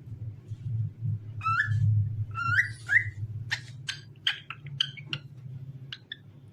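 Cockatiel whistling: a few rising whistled notes, then a quick run of short, sharp chirps.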